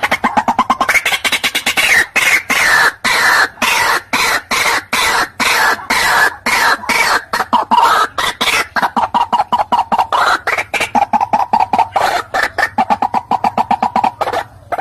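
White-breasted waterhen calling: a long run of rapid, harsh repeated notes, several a second. After about nine seconds the notes come faster and settle on a steadier pitch, and they break off briefly near the end.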